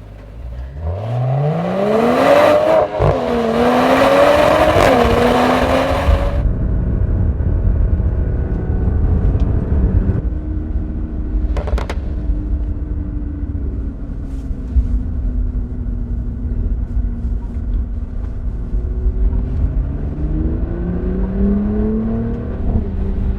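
Mercedes-AMG car engine revving hard, rising steeply in pitch over the first few seconds with loud exhaust noise. It then runs at steadier, lower revs with a deep rumble and climbs in pitch again near the end.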